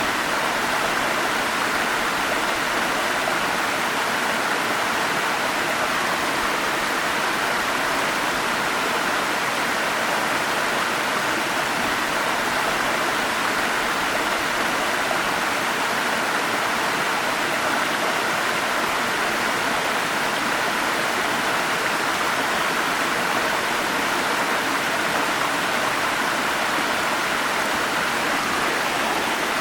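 Water of a forest stream flowing and splashing over small cascades, a steady, unbroken rush.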